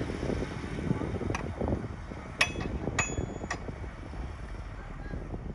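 Heavy earthmoving machinery running with a low rumble, and four sharp metallic clanks in the middle, some ringing briefly.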